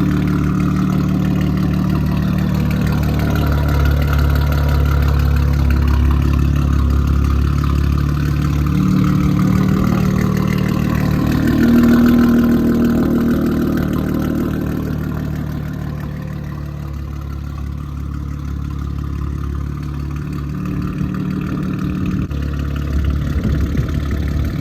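2019 Audi RS5's twin-turbo V6 idling steadily through catless downpipes and a muffled cat-back exhaust, out of open-loop cold-start mode and into closed loop, so the idle has toned down.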